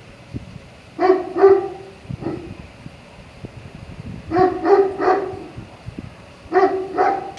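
A dog barking in three short bouts, about seven barks in all: two, then three, then two. Under them runs a steady background hiss with low buffeting, like wind on the microphone.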